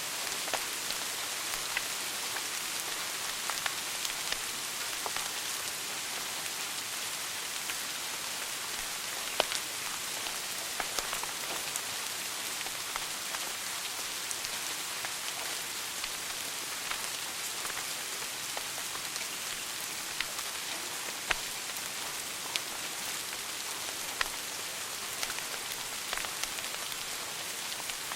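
Wood fire burning in a fireplace: a steady hiss with frequent small crackles and sharp pops, two louder pops about nine and twenty-one seconds in.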